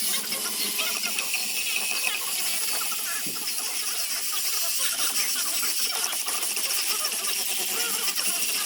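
Sandpaper sanding of a zelkova wood basket, a steady continuous scratchy hiss.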